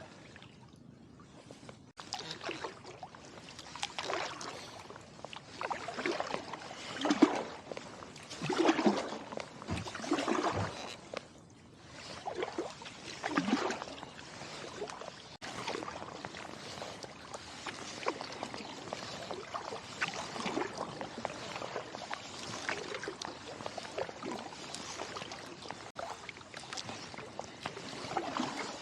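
Kayak paddle blades dipping and pulling through the water in a steady rhythm, a swell of splashing and dripping about every second and a half, settling into a steadier wash of water later on.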